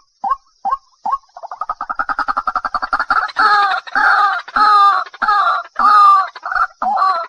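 Waterhen calling. Short notes come about two or three a second, then a fast run of short pulses builds in loudness from about a second in, and from about three seconds in it gives loud, harsh calls repeated roughly every half-second.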